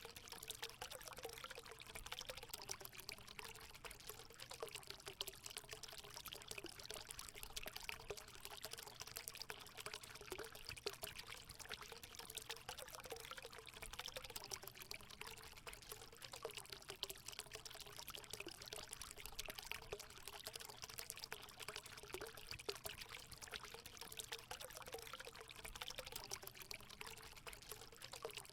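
Water running steadily into a hot spring pool, a continuous pouring trickle with small bubbling gurgles.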